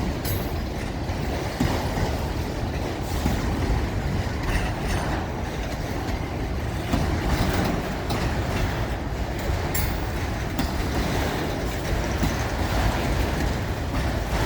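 A train rolling past, with a steady rumble and irregular clicks and clanks from its steel wheels over the rail joints.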